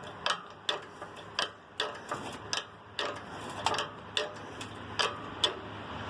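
Hand-operated chain hoist being ratcheted to lift an engine: a steady run of sharp clicks, about two to three a second.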